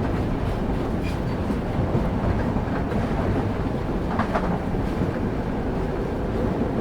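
Railway carriage wheels rolling on track, heard on board: a steady low rumble with a single clack of the wheels over a rail joint about four seconds in.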